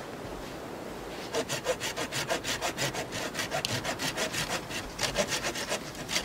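Hand saw cutting through wood in quick, even back-and-forth strokes, about three a second. The strokes start after about a second, pause briefly, then carry on until near the end.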